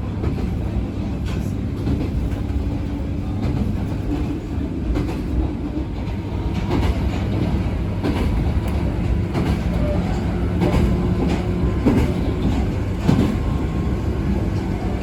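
Abukuma Express 8100 series electric train running, heard from inside the car: a steady low rumble with scattered sharp clicks of the wheels passing over rail joints.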